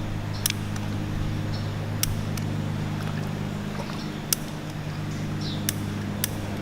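A steady low motor-like hum runs throughout. Half a dozen sharp, short clicks are scattered across it, and a few faint, brief high chirps come and go.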